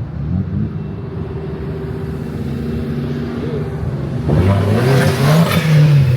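A car engine running steadily at low revs, then louder from about four seconds in as it revs, its pitch rising and falling.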